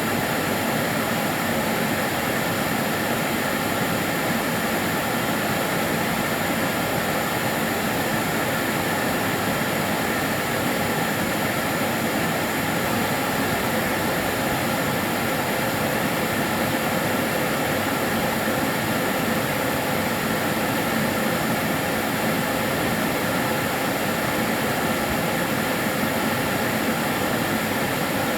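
Karcher DS 6 Premium water-filter vacuum cleaner running continuously: a steady, unchanging rush of motor and air with a faint constant whine.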